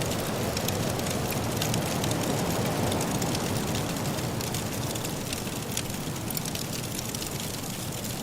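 Wood fire crackling in a fireplace, with many small sharp pops and snaps, over the steady low rush of wind from a soft snowstorm.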